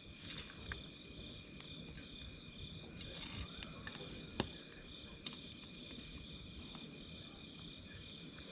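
Wood campfire crackling, with a few sharp pops over a low steady rustle, against a steady high-pitched chirring of insects.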